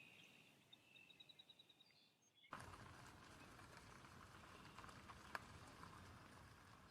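Faint bird calls, including a quick run of about eight short high notes. About two and a half seconds in they give way abruptly to a steady rushing noise with a low rumble and a single sharp click.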